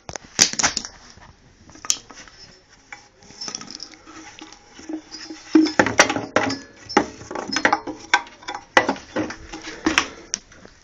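Irregular metallic clinks and knocks, as of metal objects being handled and set down.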